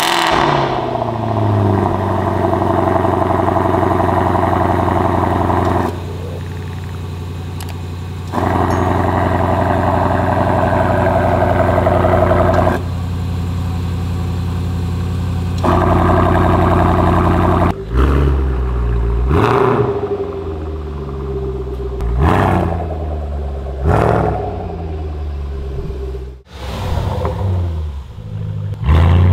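Range Rover SVR's 5.0-litre supercharged V8 on a cold start through a titanium valved exhaust with free-flow 200-cell downpipes: it fires, flares, settles into a steady fast cold idle that steps quieter and louder a few times, then is blipped with about half a dozen quick revs in the second half.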